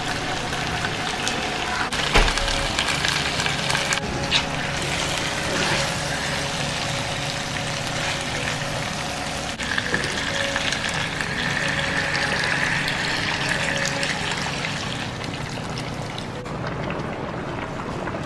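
Water being poured into a hot pan of fried catfish in pepper sauce, then the catfish pepper soup bubbling at the boil, with a few abrupt changes in the sound.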